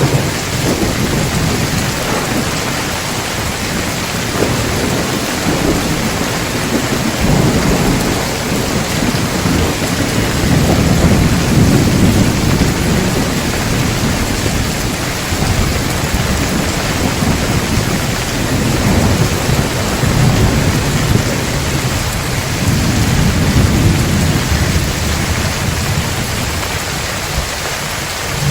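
Heavy rain falling steadily, with rolling thunder that swells and fades several times.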